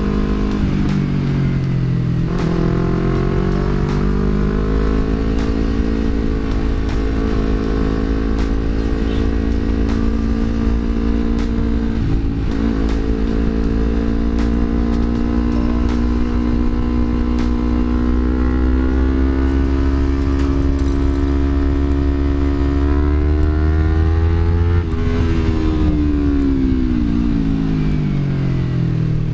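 Yamaha R25's parallel-twin engine through a Villan MV1 aftermarket exhaust, ridden on the road: the engine note falls in the first couple of seconds, then climbs and holds as the bike pulls through the gears. It drops sharply about 25 seconds in and again near the end, with wind and road rumble underneath.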